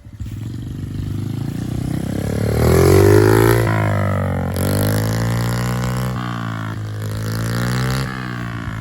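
Honda CRF50 mini bike's small single-cylinder four-stroke engine running: its pitch climbs about two and a half seconds in as it revs up, it is loudest soon after, and it then holds a steady note.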